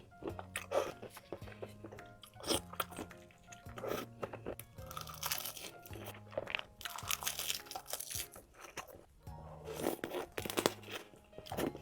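Crunching bites and chewing of spicy crab and marinated shrimp, repeated every second or so, over background music with a stepping bass line.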